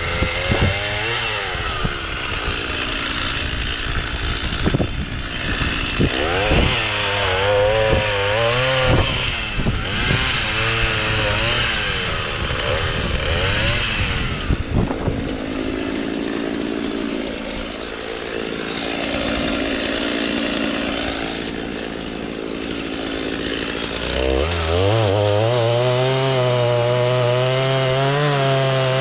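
Two-stroke chainsaw cutting into a spruce log. Its engine note dips and recovers as the chain bites into the wood. Near the end it climbs and holds at a high, steady whine at full revs.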